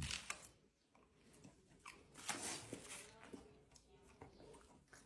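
Faint scattered clicks and smacks of a pet chewing, a little louder for a moment a couple of seconds in.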